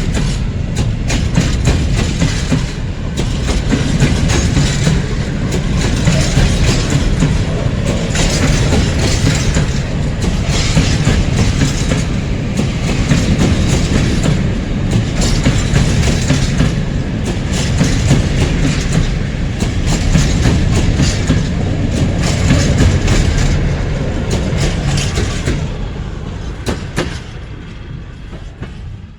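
Freight train wagons rolling past, their wheels clicking rhythmically over the rail joints over a low rumble; the sound fades over the last few seconds.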